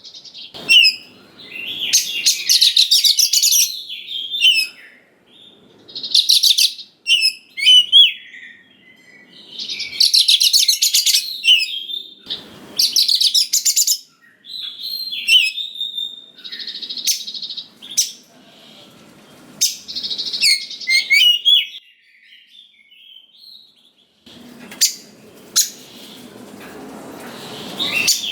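Oriental magpie-robin in full song: bursts of rapid, varied whistled and chattering phrases a second or two long, with short pauses between them and a few sharp clicks.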